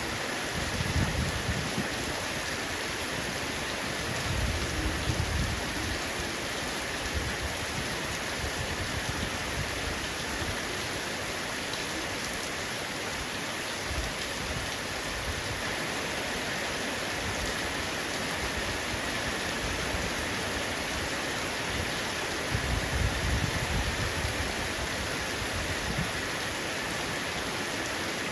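Heavy rain falling steadily on a roof, an even hiss of drops with no break. Three short low rumbles swell up over it: about a second in, around four to five seconds in, and again near the end.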